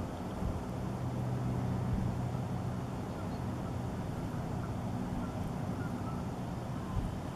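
A steady low engine hum over an outdoor background noise, strongest from about one to four seconds in.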